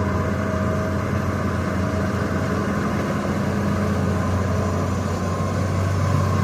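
Excavator diesel engine running steadily with a deep hum.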